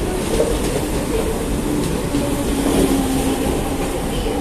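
CNR 3000-series electric multiple unit moving along the platform: a steady rumble of wheels on the rails, with a faint humming tone running through it.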